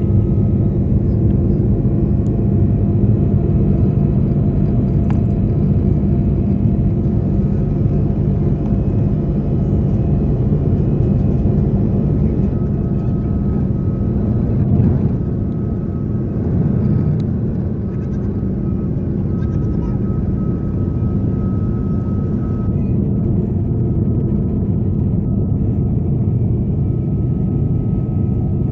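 Steady drone of an Airbus A330's jet engines and rushing air, heard inside the passenger cabin in flight, with a few faint steady tones over it.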